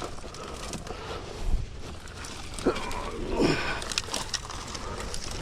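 Rustling steps through brush and two short grunts about two and a half and three and a half seconds in, from someone walking a bicycle over rough ground, with a low rumble of wind on the microphone.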